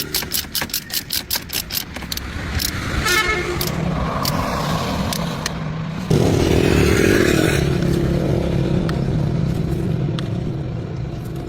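An old sedan car's starter cranks the engine in rapid, even pulses. About six seconds in, a sudden, steady, loud running sound begins and carries on.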